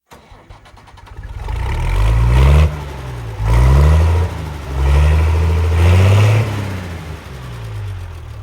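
Engine of harvest machinery revving up and dropping back several times, its pitch rising with each surge over a steady lower run.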